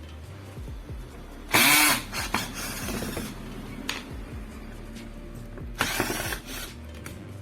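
Two loud, sudden bursts of hand-tool work on a ceiling fan motor, each about half a second long, about one and a half seconds and about six seconds in, as tight screws are forced with a screwdriver. Background music runs under them.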